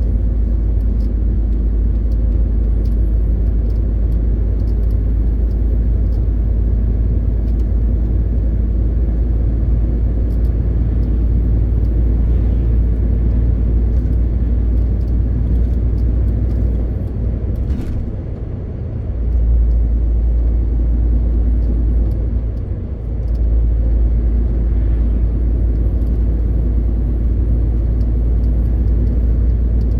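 MAN TGX 18.520 truck's 12.4-litre inline-six diesel running under way, a heavy steady low drone with road noise. The drone drops off briefly a little past halfway and again a few seconds later.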